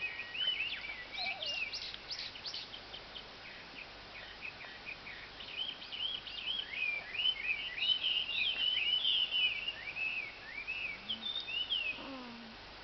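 Small birds chirping in a quick, continuous chatter of short notes that rise and fall, stopping about a second before the end.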